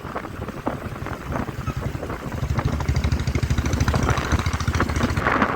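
Motorcycle engine running as the bike is ridden, its rapid firing pulses growing louder from about two seconds in, with wind noise on the microphone.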